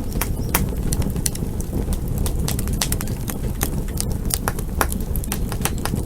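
Campfire burning: a steady low rumble of the flames with frequent sharp, irregular crackles and pops of burning wood.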